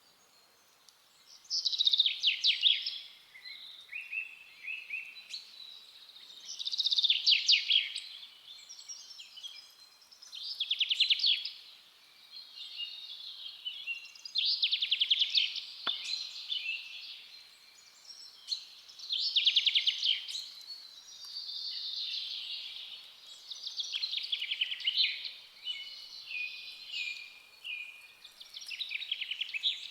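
Forest songbirds singing: one bird repeats a loud, fast trilled song phrase about every four to five seconds, with softer chirps from other birds in between.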